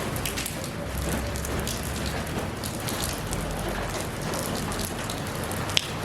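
Steady rain, with individual drops ticking and pattering on surfaces close by and one sharper drop click near the end.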